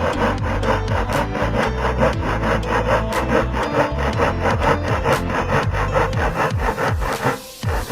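Wood being worked by hand with fast, even back-and-forth strokes, about four a second, as in sawing or sanding; the strokes stop briefly near the end.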